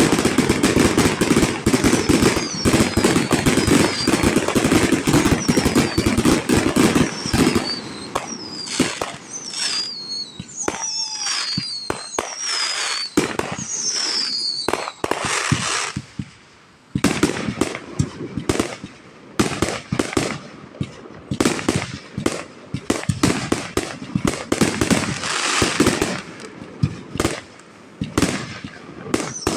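Fireworks display with rapid overlapping bangs and crackling, densest and heaviest in the first seven seconds, and many short falling whistles between about two and fifteen seconds in.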